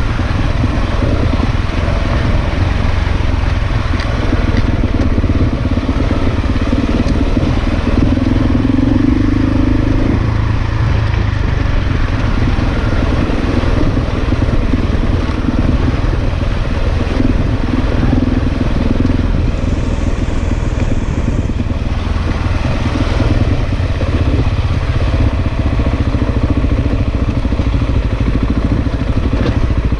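Big single-cylinder dual-sport motorcycle engine running steadily at low speed.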